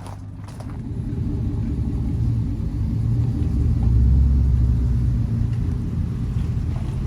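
Vehicle engine rumbling low. It grows louder from about a second in, is loudest near the middle, then eases slightly.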